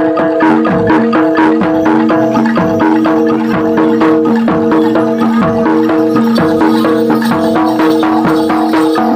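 Loud live Javanese jaranan ensemble music: fast, even percussion strokes over several held tones that sound together without a break.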